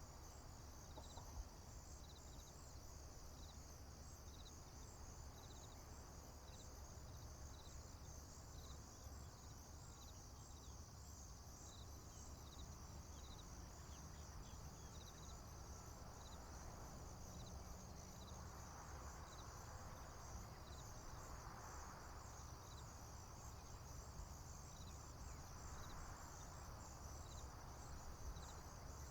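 Faint field crickets and other insects chirping: a continuous high, pulsing trill with separate short chirps about once a second, over a low steady rumble. Soft rushing swells come and go in the second half.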